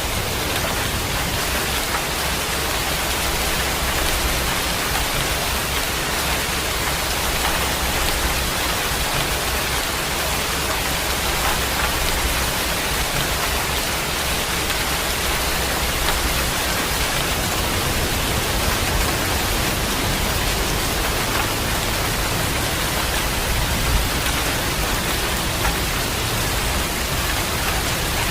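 Heavy rain falling steadily, a dense even hiss with a faint low rumble underneath.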